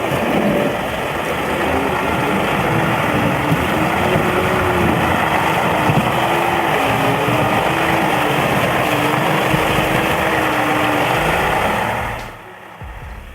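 Heavy vehicle's engine running steadily with a wavering whine, fading out about 12 seconds in.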